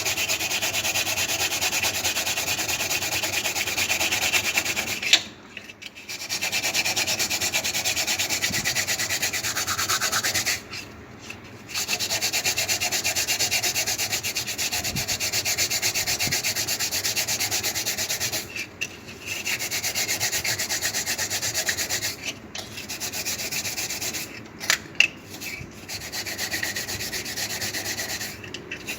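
Abrasive scouring pad scrubbed rapidly back and forth over a freshly etched copper circuit board, stripping the toner resist off the copper traces. It goes in long runs broken by several short pauses.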